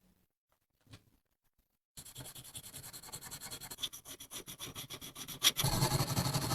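Silence, then rapid rubbing and scraping strokes, about ten a second, as the rusted metal of the lamp is scrubbed or sanded. The strokes grow louder, and near the end a louder, steadier noise takes over.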